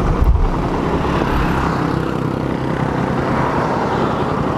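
Motorcycle engine running steadily at low revs with a dense low pulsing, heard from the rider's seat, after a louder low bump at the very start. The engine has a stripped spark-plug thread and is running on a makeshift fix.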